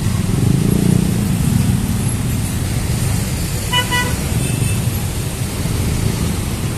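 Steady rumble of road traffic at a railway level crossing, with a short double toot of a vehicle horn about four seconds in.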